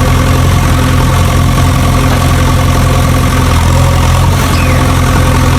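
A vehicle engine idling steadily, a deep even hum that does not change.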